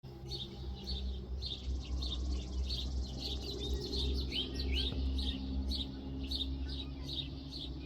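Small birds chirping: a run of short, high notes, a few each second, over a steady low hum.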